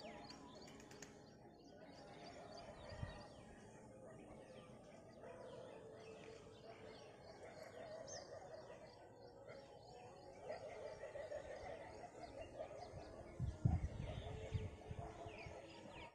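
Small birds chirping repeatedly, faint, with a few low thumps near the end.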